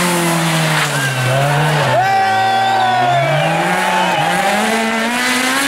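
Rally car engine at high revs, its pitch dropping and climbing several times as it changes gear, brakes and accelerates.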